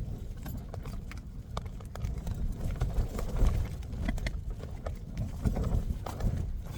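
Storm-force wind gusting against a Hilleberg Jannu tent: a steady low rumble with irregular snaps and taps from the buffeted fabric.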